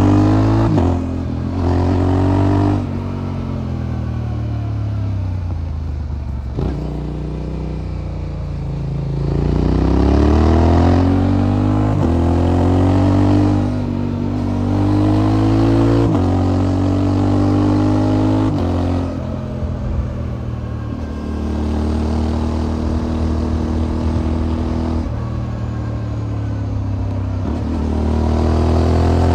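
Motorcycle engine running through an aftermarket exhaust while riding. The revs climb again and again, each climb broken by a short drop at a gear change, with spells of steadier cruising and easing off in between.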